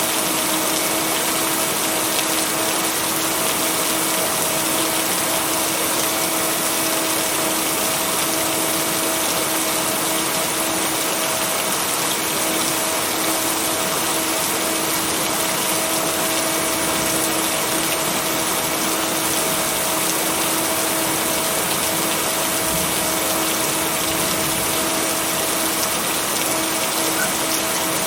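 Steady heavy rain, an even hiss with no breaks. A constant steady tone hums under it, in line with the binaural beats blended into the mix.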